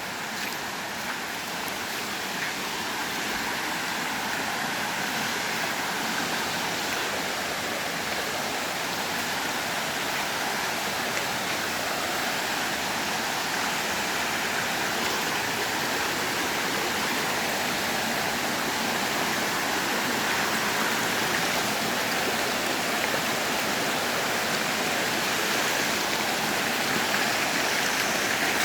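A waterfall rushing steadily, a constant even roar of falling water that slowly grows a little louder.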